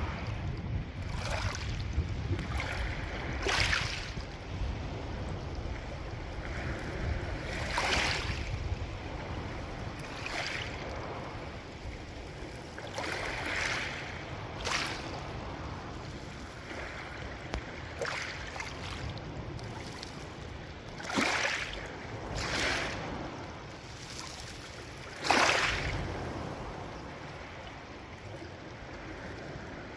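Sea waves breaking and washing up the beach, a surge of rushing noise every two to four seconds, the strongest about a third of the way in and twice in the last third. Wind rumbles on the microphone through the first half.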